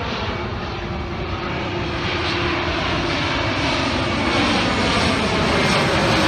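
Steady engine rumble and hiss growing gradually louder, with a faint tone slowly rising in pitch.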